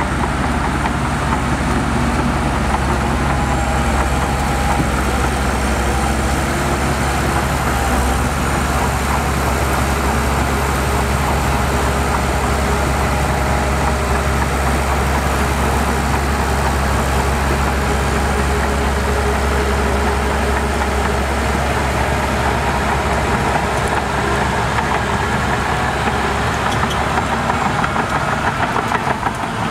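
Heavy construction machine's diesel engine running steadily with a low, even drone, dipping briefly near the end.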